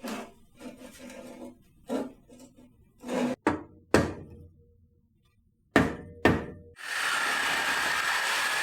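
Sharp metal knocks, about six spaced over several seconds, as the exhaust parts are struck to work the clamped catalytic converter loose from the muffler. Near the end a power tool runs steadily for about three seconds and stops abruptly.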